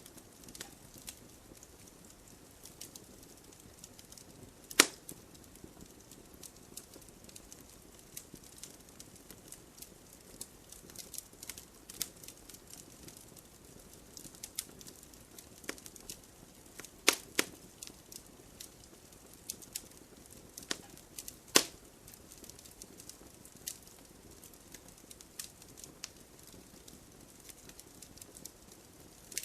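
Wood fire crackling in an open fireplace: a steady scatter of small crackles over a soft hiss, with a few loud pops about five seconds in, twice in quick succession around seventeen seconds, and again about twenty-one seconds in.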